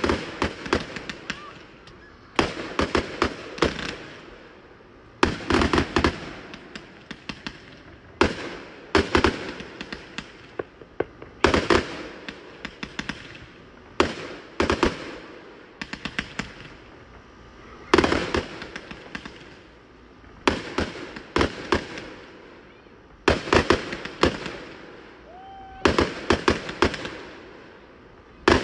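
A 100-shot consumer firework cake firing shot after shot. Each launch is followed by a cluster of sharp bangs and crackling, with a new volley every second or two.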